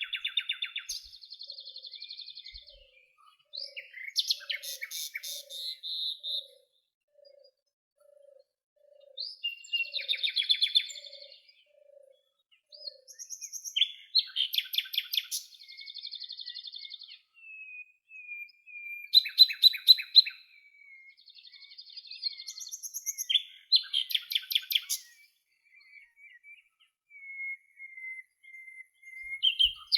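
Songbirds singing: high, fast chirping trills come in bursts every few seconds, with thin drawn-out whistles between them. For the first half a soft low note repeats steadily, about once a second.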